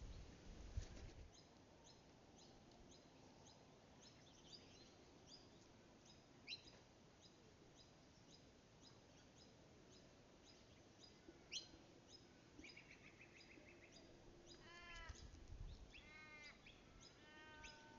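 Faint birdsong from several birds: many short, repeated high chirps, a brief trill about two-thirds in, and runs of falling notes near the end. A few low rumbles come at the start and again near the end.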